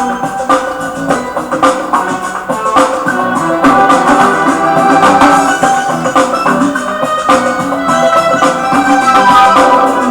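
Roland XP-50 workstation synthesizer playing music: layered pitched notes over a steady drum pattern, a test of the keyboard after its repair.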